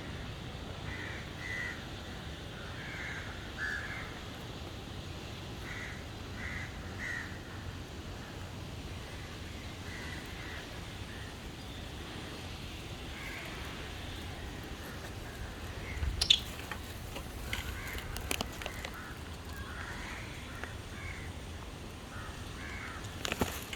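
Birds calling repeatedly, short calls in small groups, over a steady low outdoor background. A few sharp clicks about two-thirds of the way through and again near the end are the loudest moments.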